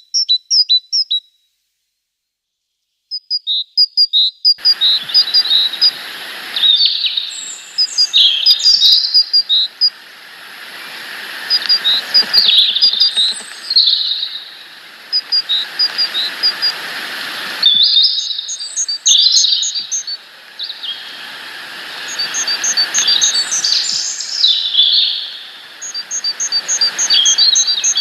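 Small birds chirping and calling in quick, repeated high notes and short trills, over a hiss that comes and goes in long stretches. The sound drops out completely for about a second and a half near the start.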